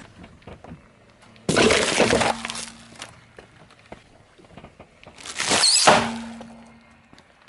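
Objects crushed under a car tyre: two loud crunching, breaking crashes about four seconds apart.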